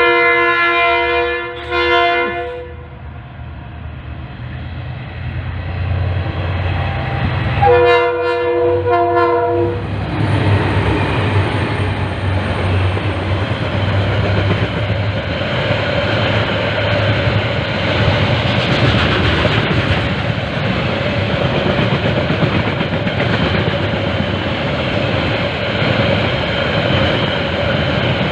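KiwiRail DFB-class diesel locomotive sounding its horn, two toots at the start and two more about eight seconds in, over the engine powering up. The long freight train then rolls past with a steady rumble and wheels clattering over the rail joints.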